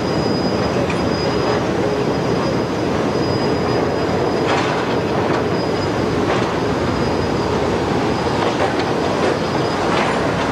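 A train passing close by: a steady loud rumble of wheels on rail, with a thin high wheel squeal coming and going and occasional clicks over the rail joints.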